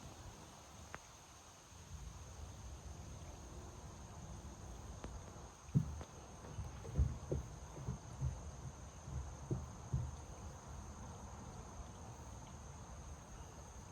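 Crickets or other insects chirring steadily in a thin high tone, with a run of low thumps and knocks from about six to ten seconds in.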